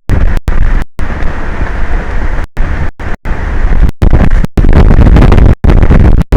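Wind buffeting an exposed microphone, a loud distorted rumble that cuts out completely many times for split seconds.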